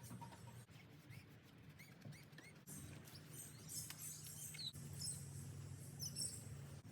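Birds chirping and calling faintly in short, quick notes, thickest in the second half, over a steady low hum.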